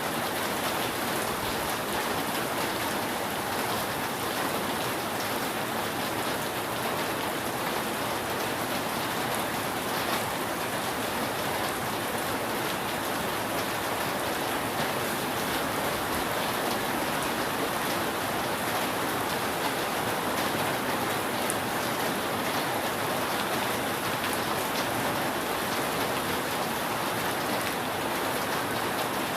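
Steady rain falling on a roof, an even hiss of many drops with no let-up.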